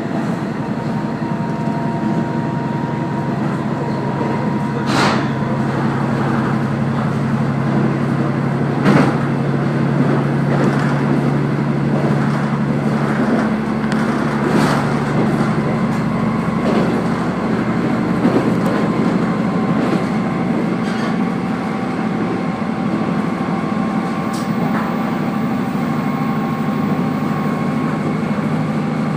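Diesel railcar heard from on board while running along the line: a steady engine drone and rumbling wheel noise, with the engine note shifting about halfway through. A few sharp knocks from the wheels and rails break in, the loudest about five and nine seconds in.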